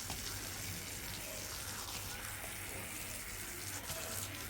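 Water running steadily from a tap, a continuous even rush.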